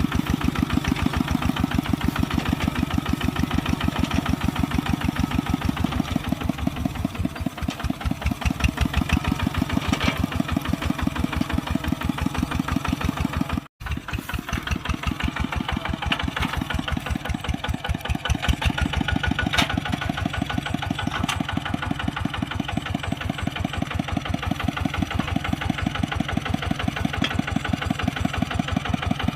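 Kubota RT140 single-cylinder diesel engine running steadily with a rapid, even firing beat. The sound drops out for an instant about halfway through.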